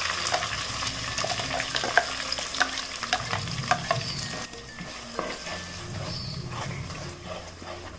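Ground roasted-coconut masala paste sizzling in hot oil with dried red chillies and curry leaves in a clay pot, stirred with a wooden spatula, with scattered sharp clicks. The sizzle dies down a little past halfway as the paste cools the oil.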